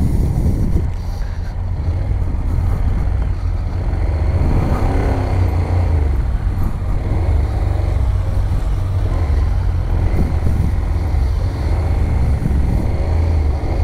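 Honda NC750's parallel-twin engine idling steadily, heard up close from the rider's seat. About four to six seconds in, a second engine rises and falls in pitch.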